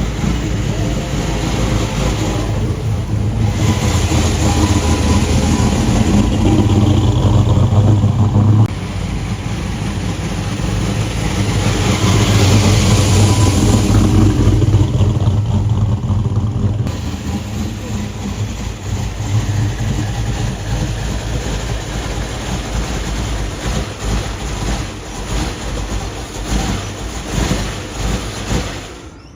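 Car engine running and revving, building up in two loud swells that cut off sharply, then easing off.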